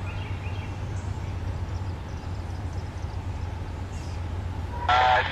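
Low steady rumble of an approaching diesel freight locomotive, with a few faint bird chirps. Near the end a scanner radio abruptly comes on.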